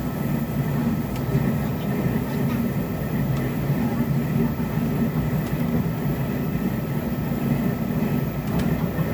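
Steady running noise inside a Taiwan Railways push-pull Tze-Chiang express passenger car: a low rumble of wheels and bogies on the track, with a few faint clicks.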